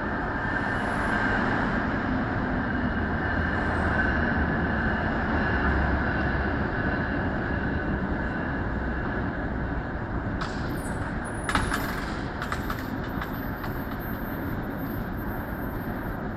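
Passenger train rolling past close below as it pulls into the station: a steady rumble of wheels and running gear, loudest in the first half. A cluster of sharp clicks and brief high squeals comes about ten to thirteen seconds in.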